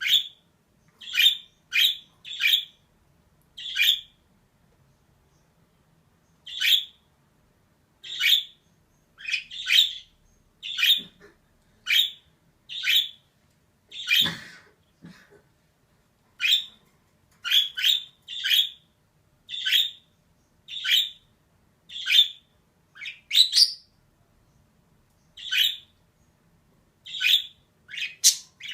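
Female budgerigar calling in short, sharp chirps and squawks, about two dozen, spaced irregularly with brief silent gaps between them.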